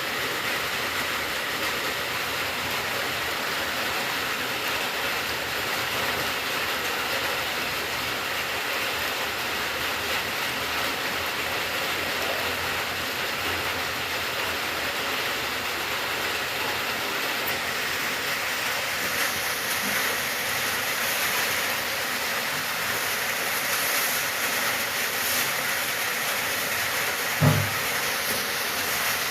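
Steady rain falling, an even hiss without let-up. A short low thump sounds near the end.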